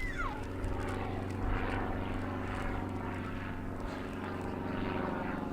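Aircraft engines running with a steady, even drone.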